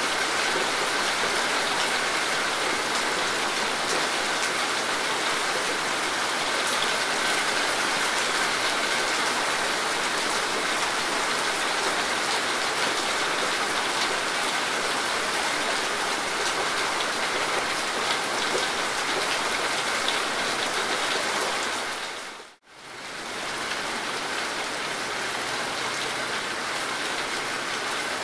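Steady heavy rain, a dense hiss of many drops with fine pattering ticks. About three quarters of the way through it dips out for a moment and comes back slightly softer.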